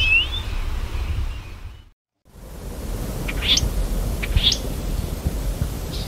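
Archival field recording of a Guam flycatcher, a bird extinct since 1983, giving three or four short, sharp calls that sweep upward, over a steady hiss. Before it, one chirp from the previous recording sounds at the very start and fades out about two seconds in.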